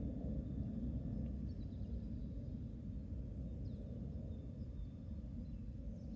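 Outdoor garden ambience: a steady low rumble, with a few faint, short high-pitched bird chirps scattered through it.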